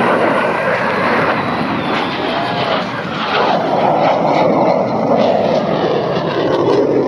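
Aircraft engine noise from a plane flying over: a loud, steady, pitchless rush that grows a little louder about three seconds in.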